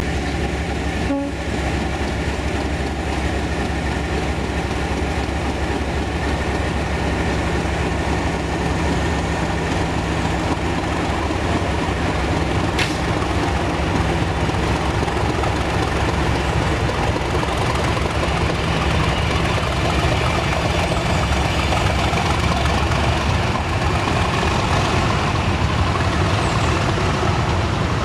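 A train running by: a steady rumble of wheel and rail noise under a low, even hum, with a single sharp tick about halfway through.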